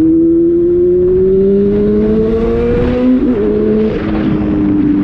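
Honda Hornet motorcycle's inline-four engine pulling under throttle, its pitch rising slowly, then dropping with a gear change about three seconds in and running on steadily.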